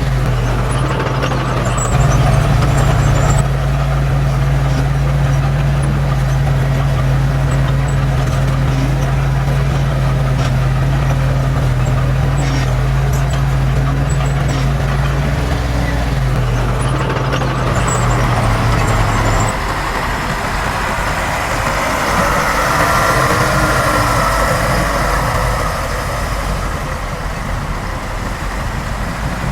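Heavy diesel machinery engine running at a steady speed. About twenty seconds in the steady engine tone breaks off and gives way to a rushing noise.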